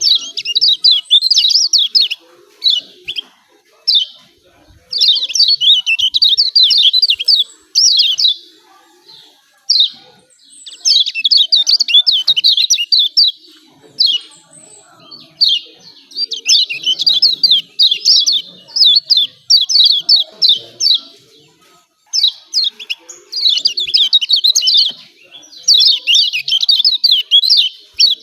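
Kecial kuning, the Lombok yellow white-eye, singing its rapid, high-pitched chattering 'ciak ciak' song in loud bursts of one to several seconds with short pauses between them.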